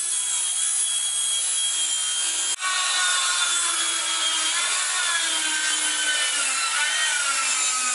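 Electric power saw cutting through a wooden roof rafter, its motor whining steadily under load with the pitch sagging and recovering slightly, and a brief break about two and a half seconds in.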